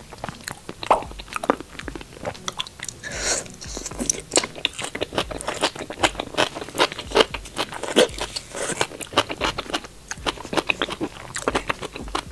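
Close-up eating sounds: biting into and chewing a fried scallion-heart skewer, with many crisp crunches and crackles one after another.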